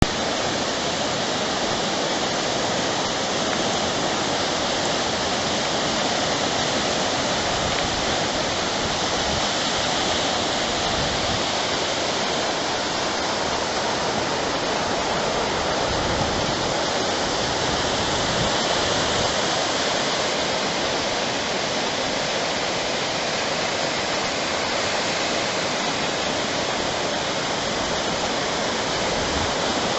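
Steady rushing of ocean surf along the shore, an even wash of noise with no single wave crash standing out.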